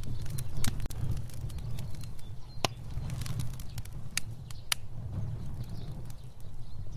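Fire burning: a steady low rumble of flames with irregular sharp crackles and pops, a few of them louder.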